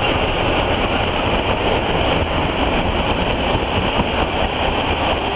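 Passenger train coaches rolling past at the platform edge: a steady, loud rumble of steel wheels on the rails.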